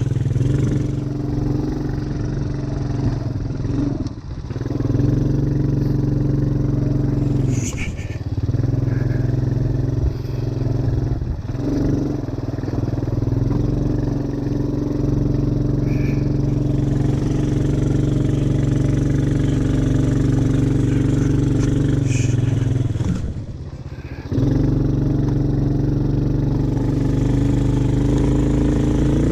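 ATV engine running steadily under throttle, its note dropping briefly a few times as the throttle comes off, once for about a second near the end.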